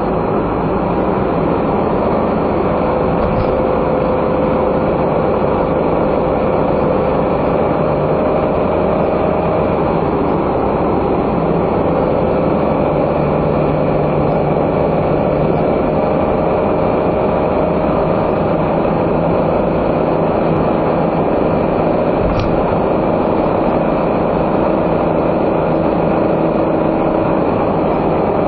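Steady drone of a non-turbo kei car's engine and tyre noise at road speed, heard from inside the car, with the engine's tone stepping slightly in pitch a few times.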